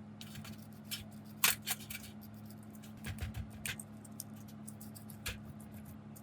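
Scattered light clicks and scrapes of metal parts and tools being handled, the sharpest about a second and a half in, over a steady low hum.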